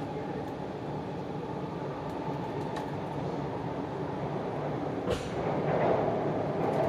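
Cabin running noise of a JR East E4 series Max double-decker Shinkansen, heard from the upper deck: a steady rumble and hiss that grows louder about five seconds in, with a brief click just before.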